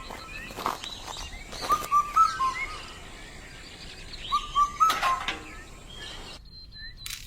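Birds chirping: the same short phrase of quick whistled notes comes three times, about two and a half seconds apart, with scattered higher chirps and a few sharp clicks.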